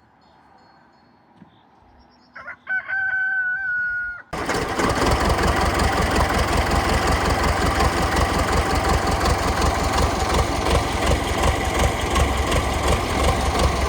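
A rooster crows once. Then an engine starts up suddenly and runs loudly and steadily with a fast low pulsing.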